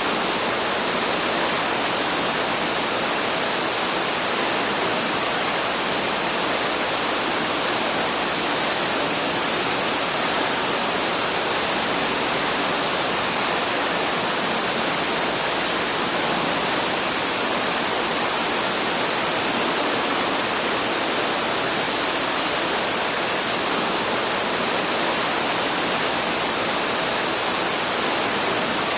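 Waterfall: an even, steady rush of falling water.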